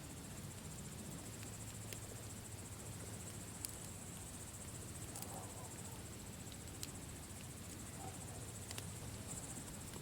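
Campfire crackling, with scattered sharp pops, over the steady high chirring of crickets.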